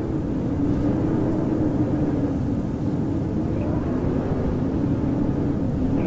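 Howling winter wind: a steady rush with a low moaning tone that wavers slowly up and down in pitch.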